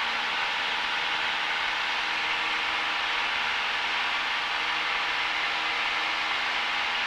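Cessna 172's engine and propeller running steadily as a constant drone, heard inside the cabin.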